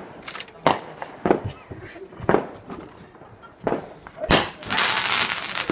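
Small fireworks going off: a run of sharp, irregularly spaced cracks, then about a second of loud hissing near the end.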